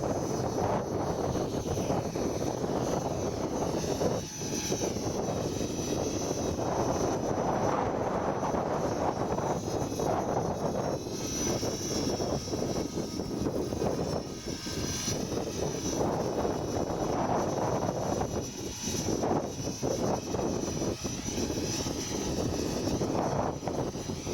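Align T-REX 500 ESP electric RC helicopter in flight. Its rotor blades whoosh, and a high motor-and-gear whine rises and falls in pitch as it manoeuvres.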